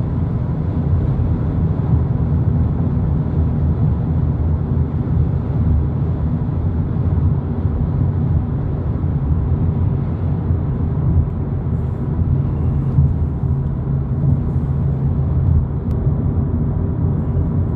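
Volkswagen Polo GTI cruising at a steady freeway speed of about 90 km/h: an even, low rumble of road and engine noise with no changes.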